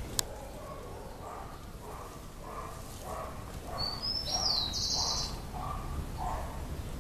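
A bird calling outdoors: a short note repeated about twice a second, with a brief high chirp in the middle. A single sharp click sounds just after the start.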